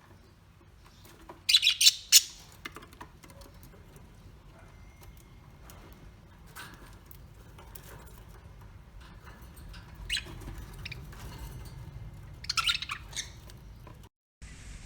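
A bird calling in clusters of short, rapid high calls: a loud burst about a second and a half in, a fainter one around ten seconds, and another near the end.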